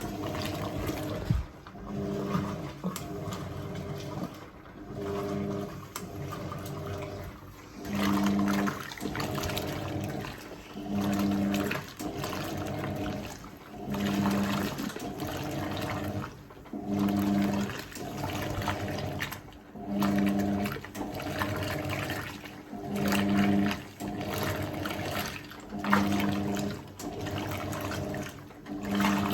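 Hoover 1400 Heavy Duty top-loader agitating a load in its Power Pulse wash action. The motor hum swells and fades in a regular cycle about every three seconds as the agitator reverses, with water sloshing in the tub.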